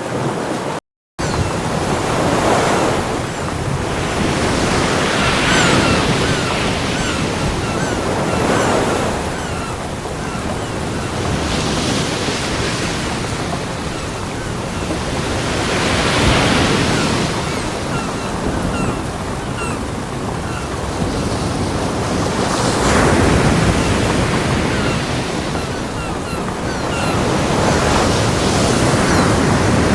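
Ocean surf on a beach: waves breaking and washing in as a steady hiss that swells every three to six seconds. About a second in, the sound cuts out completely for a moment.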